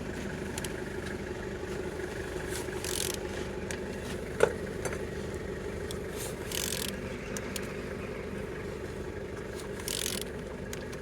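A VW 1.9 TDI engine, code BKC, being turned over by hand: a steady mechanical whirring of the pulleys and internals, with a few scrapes and one sharp click about four and a half seconds in. It turns freely, so the engine is not seized.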